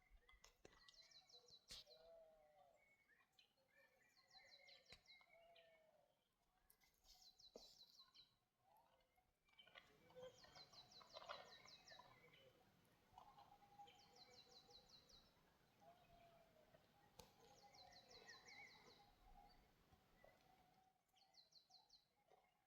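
Faint birdsong: a short high trill of rapid notes repeated every two to three seconds, with softer, lower warbling chirps in between.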